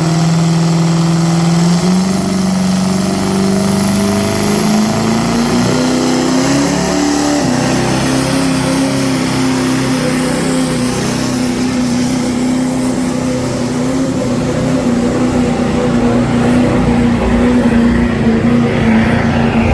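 A pulling vehicle's engine running hard under load as it drags the weight sled down the track; its pitch steps up twice in the first eight seconds or so, then holds steady.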